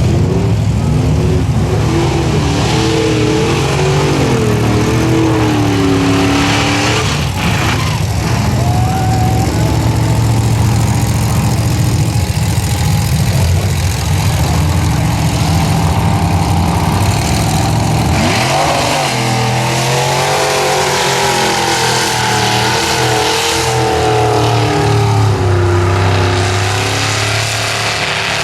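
Mud-bogging truck's big engine revving hard, its pitch swinging up and down with the throttle, and a quick climb in revs about nineteen seconds in.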